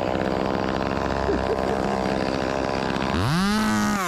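A two-stroke chainsaw blipped from idle up to full revs and back down once, about three seconds in, over the steady drone of an engine running at constant speed.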